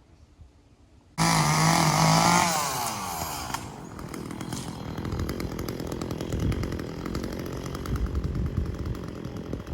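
A chainsaw cuts in suddenly about a second in at high revs. The pitch falls after a couple of seconds, and the saw keeps running unevenly at lower revs.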